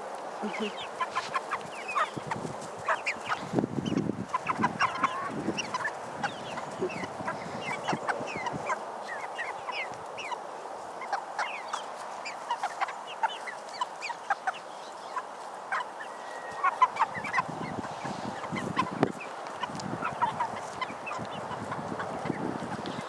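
A flock of nearly seven-week-old Cornish Cross meat chickens clucking and peeping, a steady run of many short high calls from birds crowding in close.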